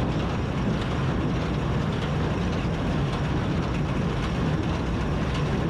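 Tractor engine running steadily with a New Holland Super Hayliner 78 wire-tie square baler working behind it while baling hay: a continuous machine noise with a low hum.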